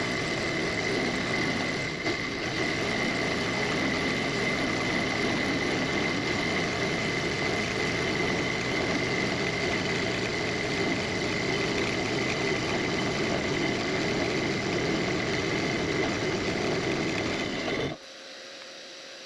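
Benchtop milling machine running with a chamfer bit cutting aluminium: a steady high whine over rough cutting noise. About 18 seconds in it cuts off suddenly, leaving a quieter hum.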